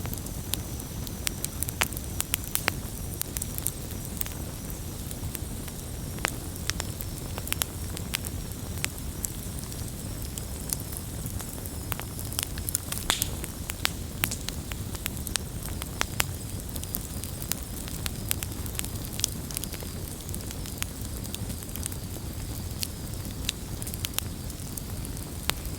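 Wood fire crackling, with frequent irregular sharp pops over a steady low rush of burning.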